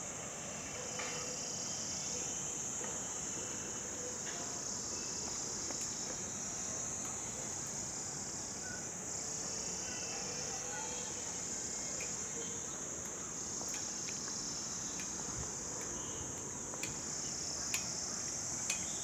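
Steady, high-pitched insect chorus, the shrill drone of many calling insects, with a few faint clicks near the end.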